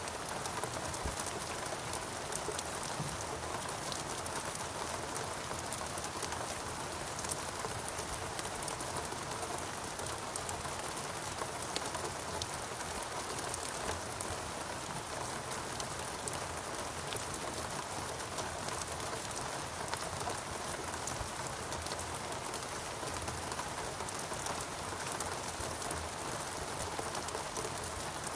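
Steady rain falling on foliage and surfaces, a constant hiss with many fine drop ticks.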